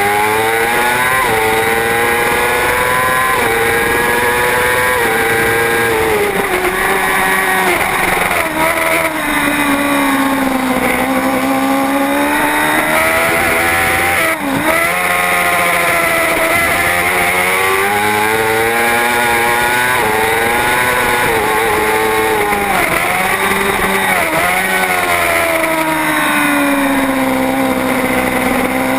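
A superbike engine runs hard at racing speed, its pitch climbing and falling again and again as the bike accelerates and slows. There is a sudden brief drop in pitch and loudness about halfway through.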